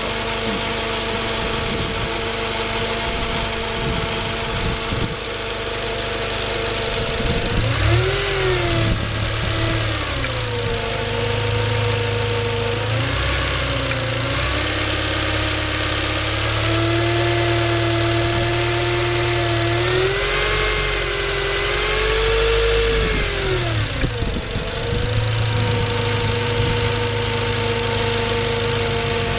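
Car engine idling and revved up several times, with a motor-like whine from the engine bay whose pitch rises and falls with engine speed. The owner suspects the alternator.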